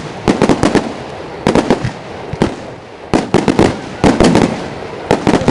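Aerial fireworks bursting: clusters of sharp, loud bangs and cracks in quick succession, a new group about every second, with a hissing crackle between them.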